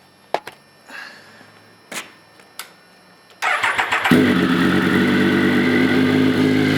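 A few faint clicks, then a Triumph Daytona 955i's three-cylinder engine, fitted with a Wolf Trident aftermarket exhaust and its road-legal baffles, is started: the starter cranks briefly about three and a half seconds in, the engine catches about half a second later and settles into a steady idle.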